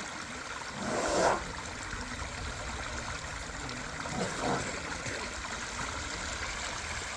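Steady rush of flowing river water, with a brief louder surge of noise about a second in.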